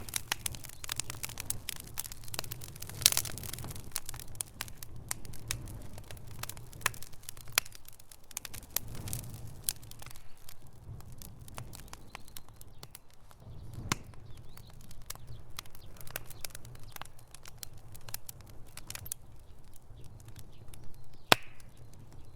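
Wood fire burning in a fireplace, crackling with irregular snaps and pops over a low rumble; the loudest sharp pops come about three seconds in and again near the end.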